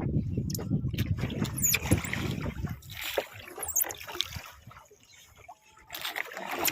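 Small wooden rowboat moving on a river under oars: water sloshing along the hull with scattered wooden knocks and clicks, dying away to near quiet about two-thirds through before picking up again at the end.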